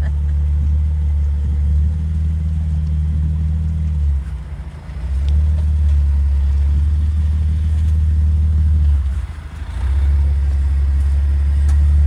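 Low, steady rumble of a Jeep driving on a rocky off-road trail, heard from the vehicle. It dips away briefly twice, about four seconds in and again about nine seconds in.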